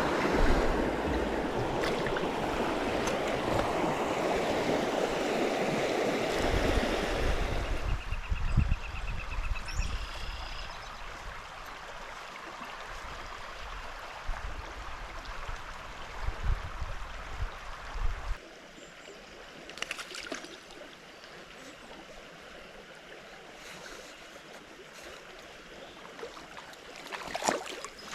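Small trout stream flowing, loud and rushing for the first eight seconds or so, then quieter, with scattered knocks and splashes.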